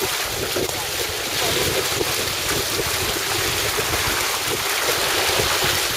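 Wind buffeting the microphone over water washing along the hull of a sailing boat under way.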